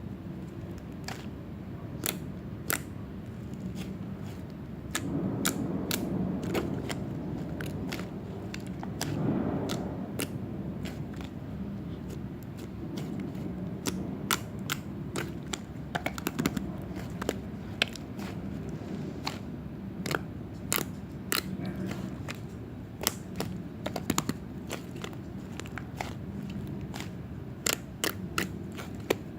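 Mixed slime being played with, giving many irregular sharp clicks and pops, more frequent near the end, over a steady low hum.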